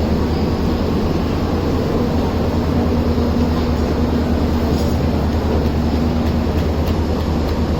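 Passenger train running: a steady low rumble with a faint hum, and a few light clicks near the end.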